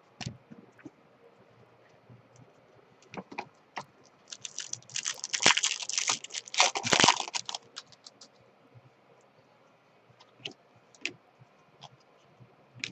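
Baseball trading cards being handled and flipped through: scattered light clicks and taps, with a denser stretch of rustling and sliding from about four to seven and a half seconds in.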